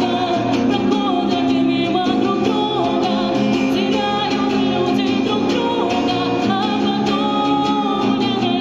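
A woman singing a slow Soviet-era pop ballad with vibrato, accompanied by guitar.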